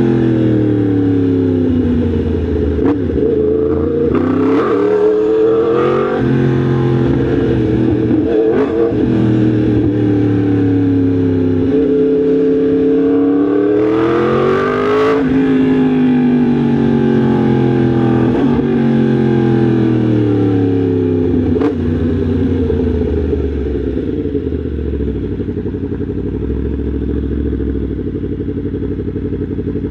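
Yamaha MT-10 SP's crossplane inline-four engine running on the move, its revs climbing and dropping several times. It settles to a steady, lower note near the end.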